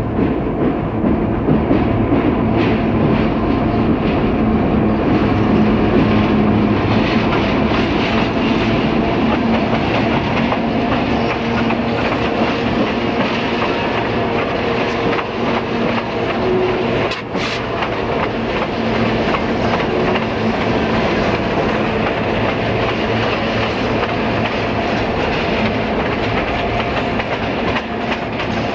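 Diesel freight locomotives hauling a coal train past at low speed, their engines running steadily while the wheels clack over the rail joints. A single sharp knock is heard about two-thirds of the way through.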